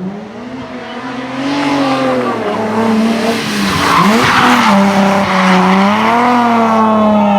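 Race car engine at high revs, its pitch rising and falling as the driver lifts, brakes and accelerates, growing louder as the car comes closer. A burst of tyre skid noise about four seconds in.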